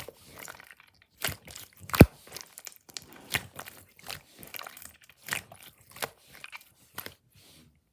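Slime being squeezed and pressed by hand, giving irregular crackling, crunching clicks, with one sharp, louder pop about two seconds in. The sounds stop shortly before the end.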